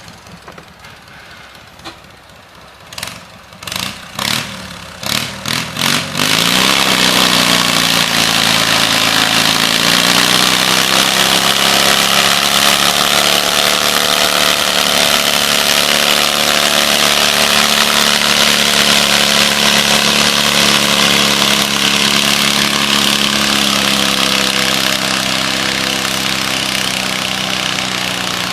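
Farm tractor engine pulling a weight-transfer sled under full load: after a few short sharp sounds, it comes on loud about six seconds in, its pitch rising briefly and then holding steady, easing slightly near the end.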